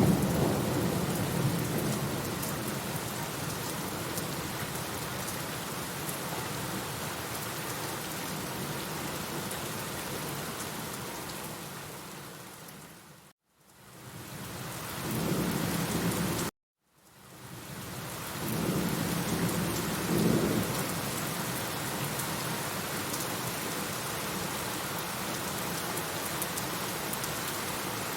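Steady heavy rain falling, with rolling thunder that fades out in the first few seconds and rumbles again about halfway through and a few seconds later. The sound cuts out completely twice for a moment near the middle.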